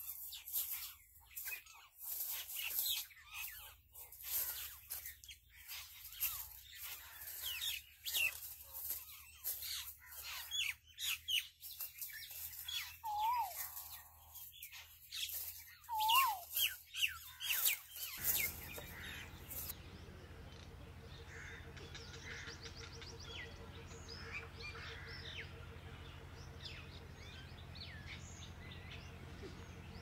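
Several songbirds chirping and whistling, quick chirps mixed with a few clear, slurred whistles. About 18 seconds in the sound cuts suddenly to a fainter, steadier background with a low hum and only faint, distant chirping.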